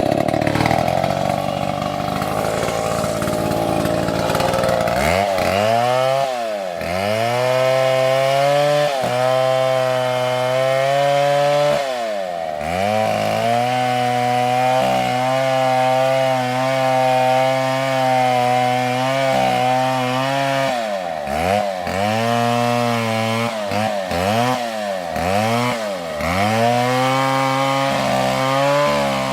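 Two-stroke chainsaw running at high revs while cutting a palm trunk. Its pitch dips sharply and climbs back again and again as the chain bogs down in the cut and recovers.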